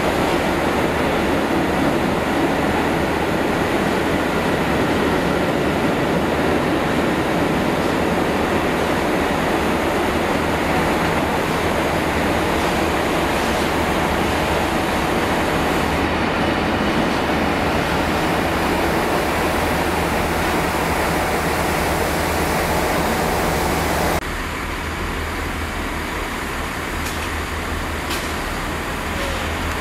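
Freight train of covered wagons rolling past at close range, a loud, steady rumble of wheels on rail. About 24 seconds in it cuts off abruptly to a quieter, steady background.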